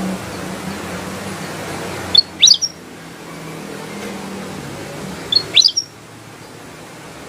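Kutilang emas, a bulbul, giving two short bursts of quick rising whistled notes about three seconds apart, over a steady background hiss and a low hum.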